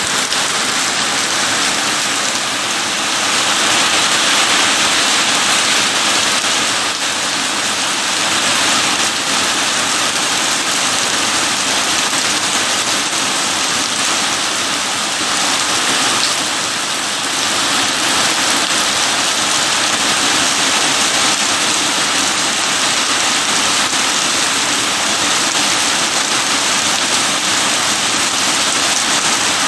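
Steady heavy rain falling and pattering on surfaces, a dense even hiss that swells slightly in strength now and then.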